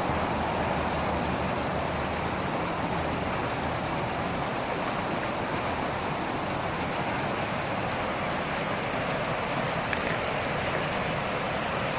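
Creek water rushing steadily, with a single faint click about ten seconds in.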